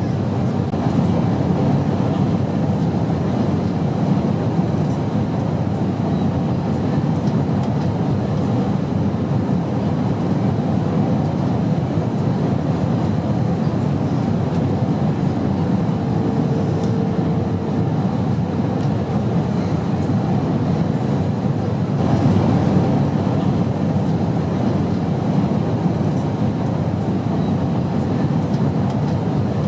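Airplane noise in flight: a steady, even low rumble with no breaks.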